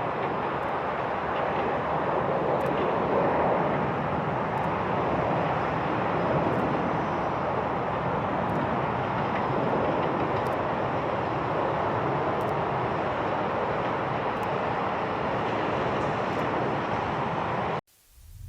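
Jet airliner engine noise at an airport, a steady rush that swells slightly now and then and cuts off abruptly near the end.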